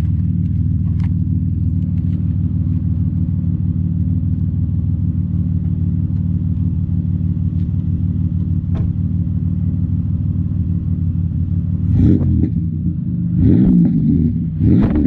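A 2003 Chevrolet Impala's V6 idling steadily through its freshly repaired exhaust, which now runs quiet with its holed pipe section replaced. Near the end the engine is revved in quick blips, its speed rising and falling a few times.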